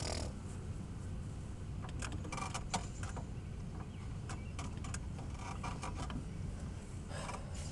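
Recoil pull-starter of an old lawnmower being yanked several times on a cold start, each pull a short burst of rattling clicks, over a steady low rumble.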